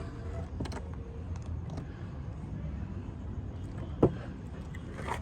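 A few sharp knocks, the loudest about four seconds in, over a steady low hum.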